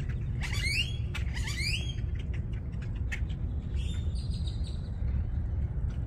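A bird calling: two sweeping calls in quick succession, then a shorter, higher call about four seconds in, over a steady low rumble.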